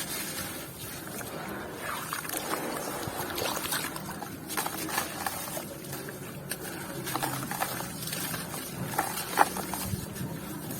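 Chunks of grainy, partly wet white cement crunching and crumbling close to the microphone: a steady run of small, irregular crackles with faint wet sounds and a sharper snap near the end.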